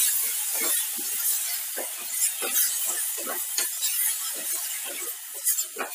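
Sesame chutney sizzling in hot ghee in a metal pan, with a spatula stirring and scraping it in short, irregular strokes over a steady hiss.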